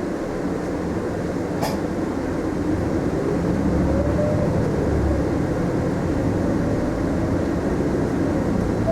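Cabin sound of a Mitsubishi Fuso Aerostar city bus pulling away from a stop: the engine runs under load as the bus accelerates, growing louder over the first few seconds, with road rumble. There is a single sharp click about two seconds in.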